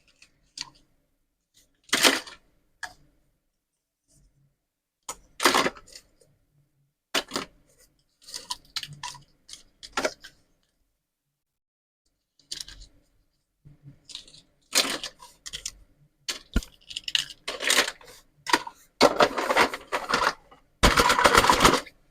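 Plastic toy food pieces being handled: scattered clicks, clatters and short scraping or tearing bursts, coming more often and running longer near the end.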